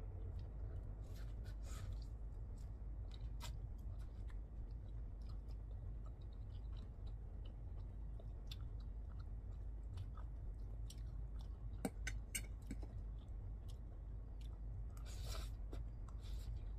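Eating kimchi ramen and shrimp: chewing with scattered small wet clicks, and a short slurp of noodles near the end, over a steady low hum.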